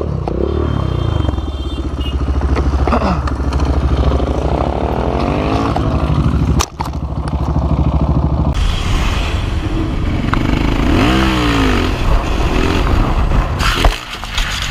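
Motorcycle engines revving, their pitch rising and falling several times, over heavy wind and road noise. The sound breaks off abruptly about seven seconds in, and another riding clip with a different engine follows.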